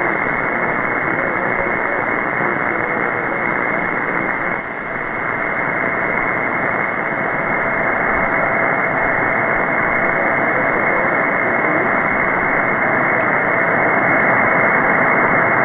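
Hiss and static from a shortwave receiver tuned to 14.325 MHz upper sideband, with a faint steady whistle running through it. No station comes through: band conditions are poor from a major geomagnetic storm.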